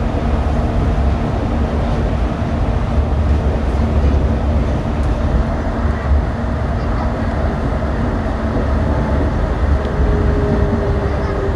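Yurikamome rubber-tyred automated guideway train running: a steady low rumble from the tyres and running gear with a constant motor hum. About ten seconds in, a new whine comes in and sinks slightly in pitch.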